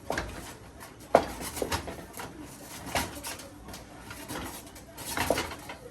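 A utensil knocking and scraping in a cooking pot while fufu dough is worked, with a few sharp knocks spread over several seconds, the loudest about a second in.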